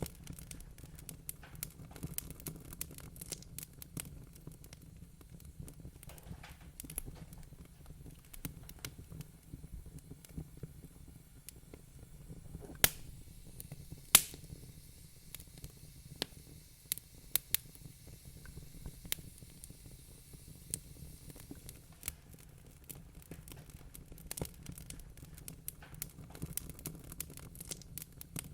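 Wood fire crackling in a fireplace: irregular sharp pops and snaps over a low steady rumble, with two louder pops about halfway through.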